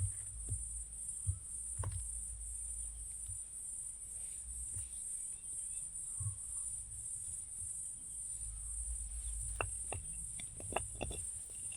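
Steady high-pitched chorus of rainforest insects, crickets or their like, pulsing evenly, over a low rumble. A few sharp clicks or knocks come near the end.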